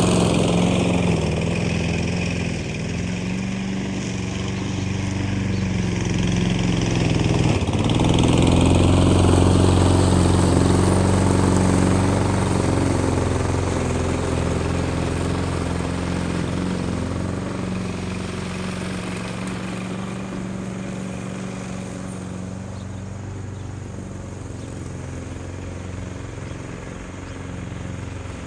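A grass cutter's small petrol engine running steadily, its note holding with slight changes in load. It grows louder about a third of the way in, then slowly fades.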